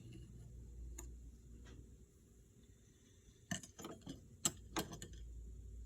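A few sharp, scattered clicks and taps of a small hand tool and parts being handled at a power steering cylinder during a reseal: single clicks about a second in, then a quick cluster a little past halfway.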